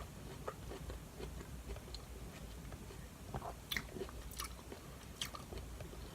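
Faint handling noise: scattered light clicks and taps over a low steady hum in a small room.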